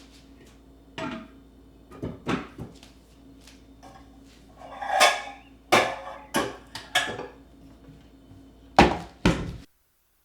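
A series of knocks and clatters of household things being handled and set down, about eight in all, with a longer rattling clatter about five seconds in, over a faint steady hum. The sound cuts off abruptly near the end.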